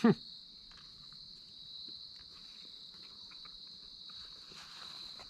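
Crickets chirring steadily in a high, even drone. At the very start comes one brief, loud sound that sweeps quickly downward in pitch.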